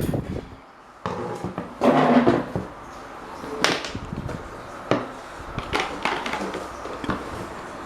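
Irregular clicks and knocks of workshop handling, with a short scraping rattle about two seconds in.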